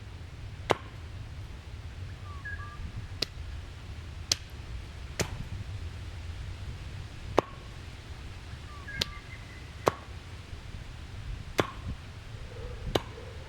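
About nine sharp clicks or knocks at irregular intervals, roughly one every one to two seconds, over a low steady rumble, with a few faint short chirps twice.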